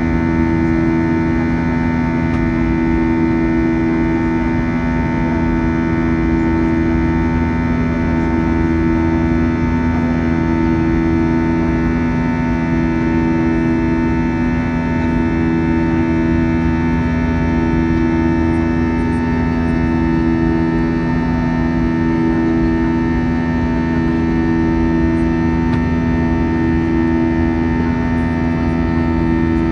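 Airbus A321 jet engines running steadily: a loud, even drone made of several held tones, with a slow throb that swells and fades about every two seconds.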